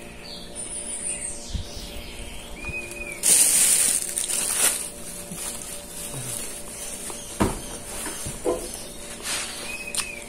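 Birds chirping: a short, high, arched chirp repeats a few times, with quicker falling chirps early on, over a steady low hum. A loud rustling hiss comes about three seconds in, and a few soft knocks follow later.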